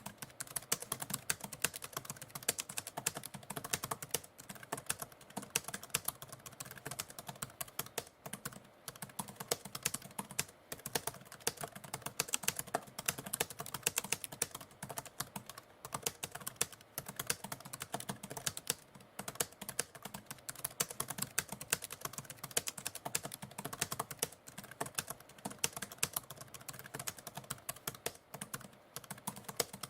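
Typewriter keys clacking in a continuous, irregular stream of fast typing.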